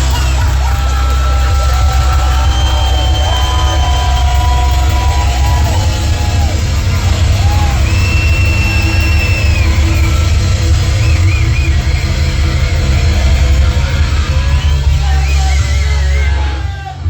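Heavy metal band playing loudly live, with long held high notes over a heavy low end; the music drops off sharply near the end.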